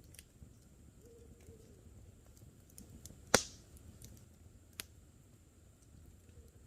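Wood campfire crackling with scattered small clicks, then one loud sharp pop a little past three seconds in and a smaller pop near five seconds.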